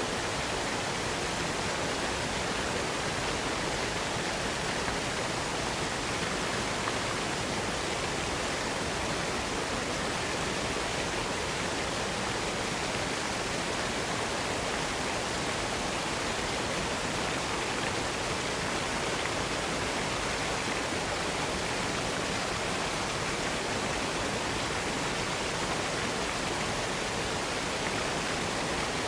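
Waterfall: a steady, unbroken rush of falling water with no changes or separate sounds.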